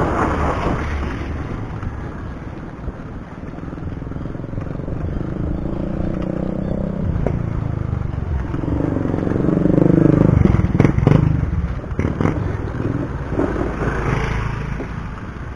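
Wind and road noise picked up by a chest-mounted action camera while cycling, with a motor vehicle's engine drawing near and passing close by, loudest about ten seconds in.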